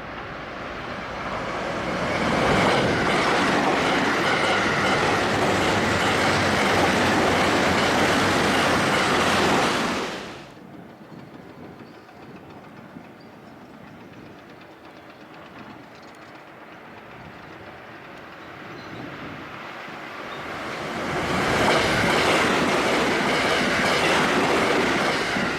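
A 12-car Special Rapid electric train passing through the station at speed, a loud rush of wheel and air noise with clatter over the rail joints, cutting off suddenly about ten seconds in. Near the end a second train, a 6-car Haruka limited express, approaches and passes at speed with the same loud rush.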